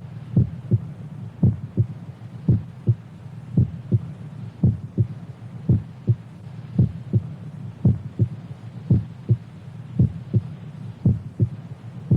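Heartbeat sound effect: a double lub-dub thump repeating about once a second at a slow, even pace, over a steady low hum.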